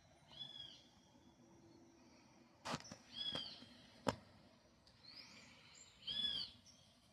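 A bird calling: a short call that rises and falls, repeated three times about three seconds apart. Two or three sharp clicks come between the calls.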